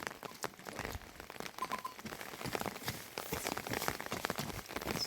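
Rain falling, with drops pattering irregularly on a surface.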